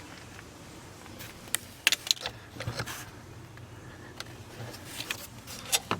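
Scattered clinks and knocks of loose metal parts and bolts being handled and rummaged through, several quick ones about two seconds in and more near the end.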